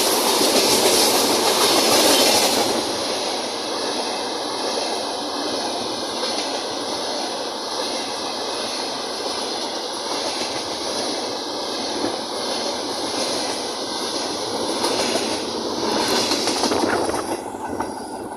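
Freight train behind a VL11 electric locomotive rolling past close by, its steel wheels running on the rails with a steady clatter. The noise eases after about three seconds and dies down near the end.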